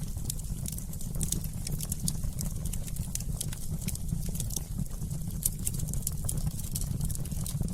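Log fire crackling: frequent small, sharp pops and snaps, irregular in timing, over a low steady rumble of burning.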